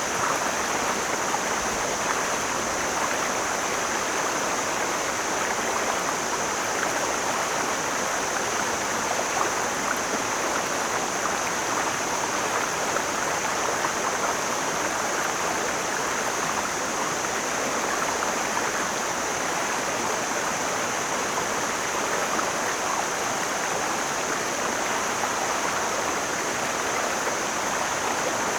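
Mountain stream flowing over rocks, a steady rushing and burbling of water, with a thin, steady high hiss above it.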